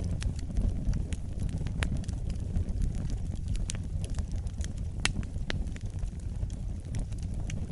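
Wood fire burning in a fireplace: a steady low rumble of flames with irregular sharp crackles and pops, the loudest about two, four and five seconds in.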